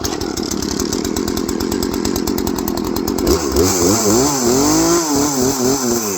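Two-stroke chainsaw starting on the first pull with the choke out after priming, then running steadily. About three seconds in, its engine speed begins rising and falling repeatedly.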